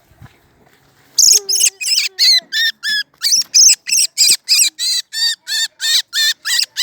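A bird calling loudly and close by: a quick, even string of sharp, harsh calls, about three a second, beginning about a second in and running on without a break.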